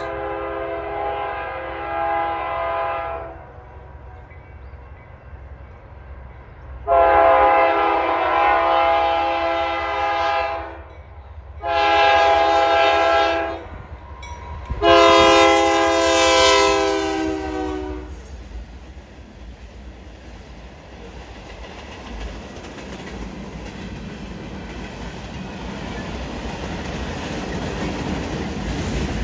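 Locomotive air horn sounding the grade-crossing pattern of long, long, short, long, the last blast sliding slightly down in pitch as the train draws past. Then the rumble of the train on the rails, growing louder toward the end.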